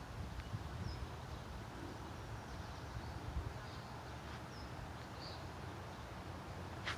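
Quiet outdoor ambience: a steady low rumble of wind on the microphone, with a few faint, short bird chirps.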